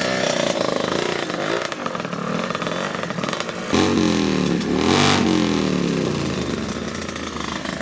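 Motorcycle engines revving. A louder engine cuts in suddenly about four seconds in, its pitch rising and falling as it is blipped.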